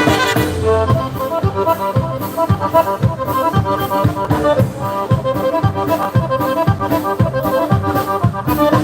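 Live polka band music, with an accordion carrying the melody over an oom-pah bass beat of about two beats a second.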